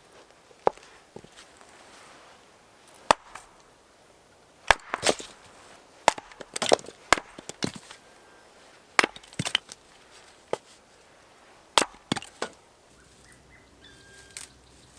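Wood being chopped with a hatchet or axe: a dozen or so sharp, irregularly spaced strikes, some coming in quick pairs and triplets.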